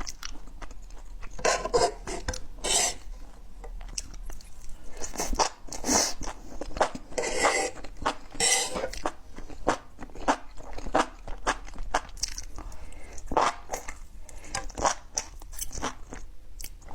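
Close-up chewing and crunching of food, in irregular bursts of bites and crunches.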